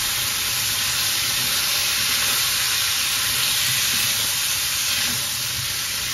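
Chicken fillet pieces frying in hot oil with curry masala in a wok, a steady sizzling hiss as they are stirred with a spatula.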